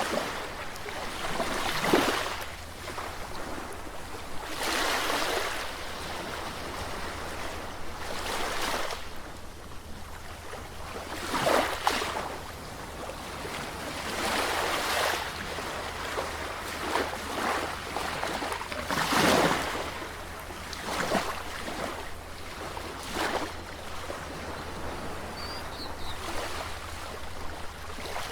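Sea waves breaking one after another, each a swell of rushing hiss that rises and falls away every few seconds over a steady wash of surf.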